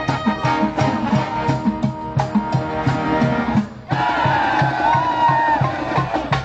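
College brass band with drums playing an up-tempo tune to a steady beat. The band breaks off briefly about four seconds in and comes straight back in.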